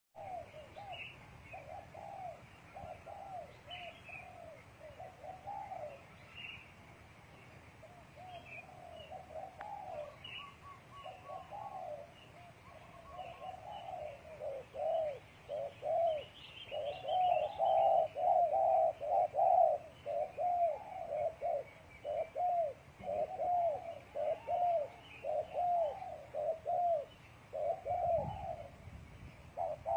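Spotted doves cooing over and over in short arched phrases, growing louder and nearly continuous from about halfway through. Faint high chirps of small birds sound behind them.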